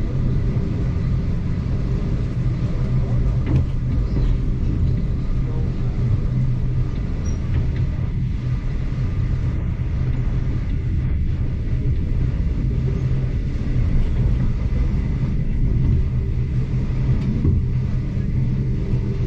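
Steady low rumble of a heritage excursion train heard from inside a passenger carriage as it runs along the line.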